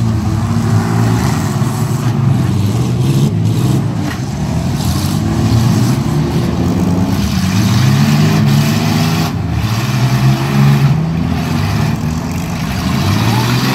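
Engines of several compact demolition derby cars and minivans revving up and down at once, their overlapping pitches rising and falling as the cars drive and ram each other.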